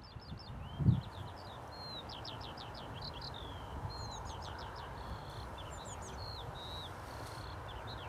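Small birds singing in quick chirps and short trills over a steady outdoor background hiss, with a single low thump about a second in.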